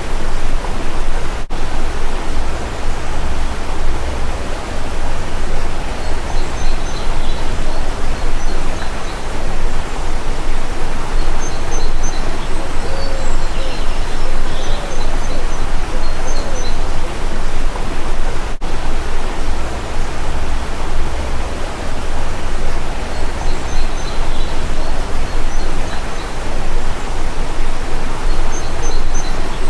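Steady rush of a stream's running water, loud and even, with a few short high bird chirps and occasional low coos over it.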